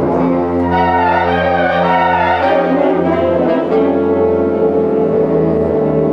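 Concert band playing slow, held chords, with brass to the fore; the chord changes every second or two.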